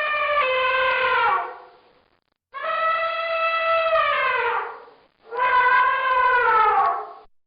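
Elephant trumpeting: long, loud, horn-like calls, three in a row, each sliding down in pitch as it ends.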